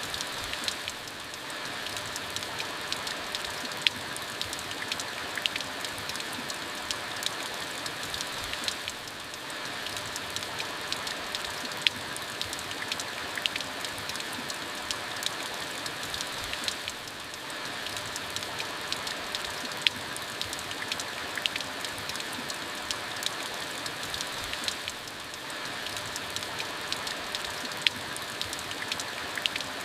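Steady rainfall, a continuous hiss of rain with many individual drops ticking sharply on a hard surface. The rain eases briefly about every eight seconds, and a few louder single drips stand out.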